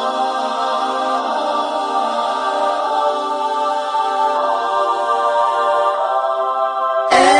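Layered wordless backing vocals holding steady, sustained harmony notes, sung a capella with no instruments. Near the end a louder vocal line comes in abruptly.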